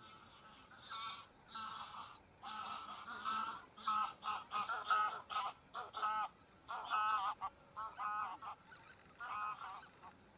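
Geese honking, a rapid series of short, repeated calls that starts about a second in, with several birds calling over one another.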